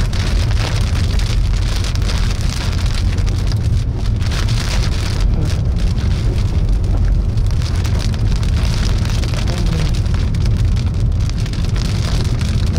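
Heavy rain pattering steadily on a moving car's roof and windshield, over the low rumble of the vehicle and its tyres on the wet road.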